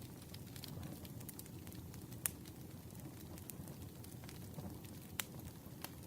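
Wood campfire burning with a low, steady rush of flame and scattered crackles and sharp pops of the logs, the loudest pop about two seconds in and two more near the end.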